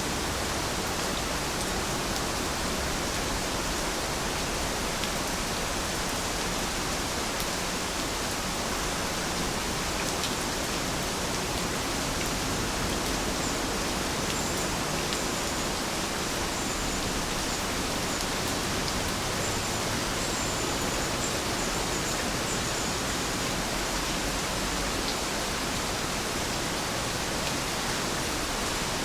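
Heavy rain falling steadily, an even, unbroken hiss, with a few faint high chirps partway through.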